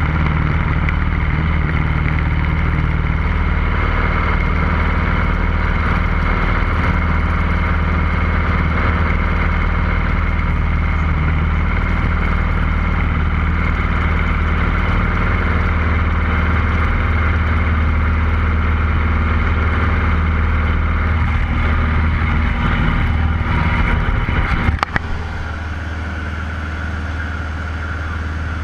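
Cessna 150L's four-cylinder Continental O-200 engine and propeller running with a steady drone. About 25 seconds in there is a sharp click and the sound drops suddenly to a quieter, steady drone.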